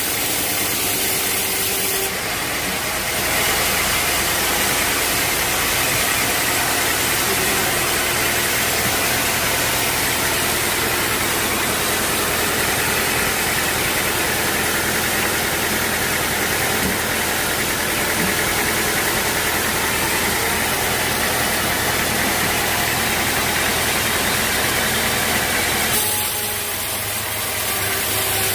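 Sawmill machinery running steadily. About three seconds in it gets louder and brighter, holds for over twenty seconds, then drops back near the end.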